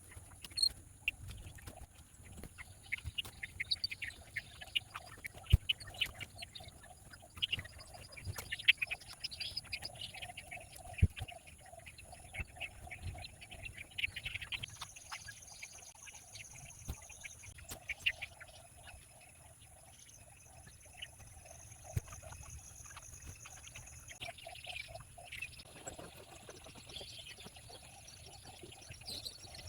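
Small birds at a feeder chirping and calling in quick, irregular bursts, with scattered sharp taps and knocks.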